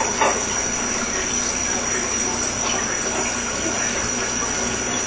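Tap water running steadily into a kitchen sink while dishes are washed by hand.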